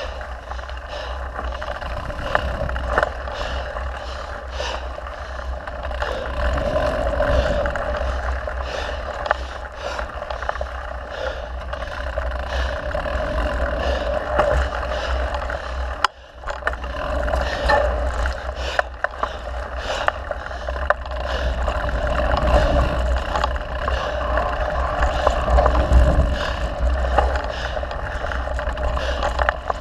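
Mountain bike riding on a dirt trail: wind rumbling over the camera microphone, with tyre noise and frequent clicks and rattles from the bike. The sound drops out for a moment about halfway through.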